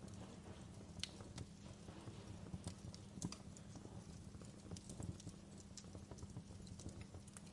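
Wood fire in a fireplace crackling, with irregular sharp pops and snaps over a faint low steady rumble.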